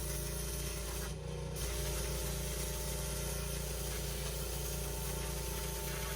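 Engine-driven pressure washer running steadily while its jet blasts a patio's joints, a steady engine under hissing spray, with a short break in the spray about a second in.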